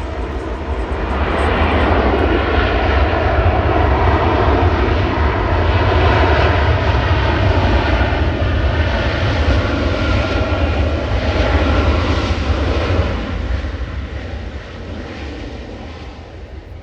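Jet airliner passing close by, its engines a loud broad rumble that swells about a second in, holds, and fades away near the end.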